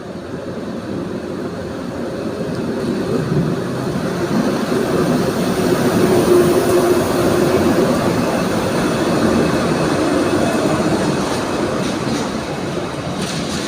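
Freightliner freight train hauled by Class 90 electric locomotives passing close by: a steady rolling of wheels on rail that builds over the first few seconds, peaks about six seconds in with a brief whine, then eases slightly as the wagons go by.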